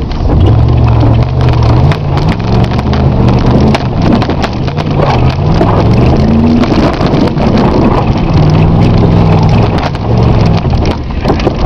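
A 1984 Plymouth Caravelle's 318 V8, straight-piped with no mufflers, revving up in several rising sweeps and then holding steady, heard from inside the cabin. Knocks and rattles from the car bouncing over rough ground run through it.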